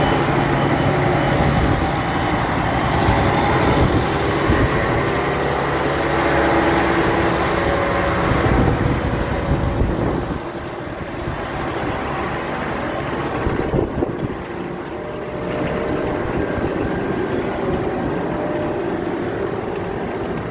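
Intercity train at a station platform with its diesel engine running loudly and steadily; the sound eases somewhat about ten seconds in.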